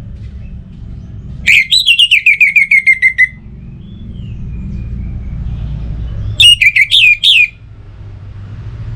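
Orange-headed thrush singing. A quick run of about ten notes falls in pitch about a second and a half in, and a shorter phrase of a few loud notes follows near the end, over a low steady rumble.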